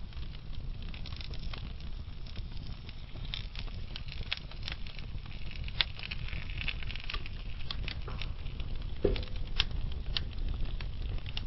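Wood fire burning in a fireplace: a steady low rumble of flames with scattered crackles and pops from the burning logs, and one louder pop about nine seconds in.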